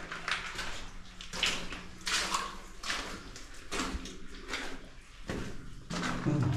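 Someone wading through knee-deep water in a flooded mine tunnel: a run of sloshing splashes, one or two a second, echoing off the rock walls.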